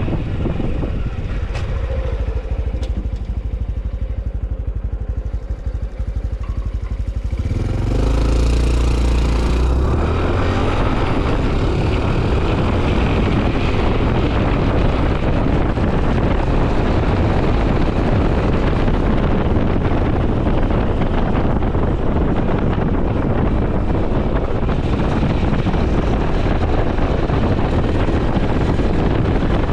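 Honda CT125 Hunter Cub's air-cooled single-cylinder engine ticking over at low revs, then opening up about 8 seconds in as the bike pulls away and runs steadily at road speed, with wind noise on the microphone.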